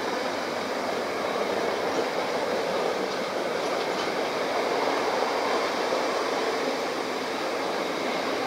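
Container freight train's wagons rolling past close by: the steady noise of steel wheels running on the rails.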